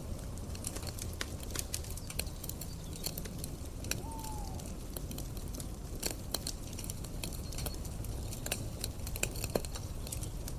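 Campfire crackling: irregular sharp pops and snaps over a low steady rumble of burning wood, with one short falling chirp about four seconds in.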